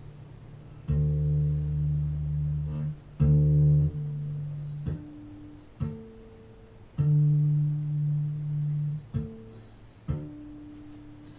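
Guitar intro to a song: low plucked notes, the longest held a second or two, with shorter notes between.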